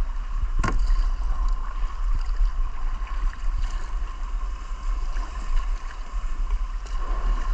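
Rushing river water with wind rumbling on the microphone, and a single sharp knock about two-thirds of a second in.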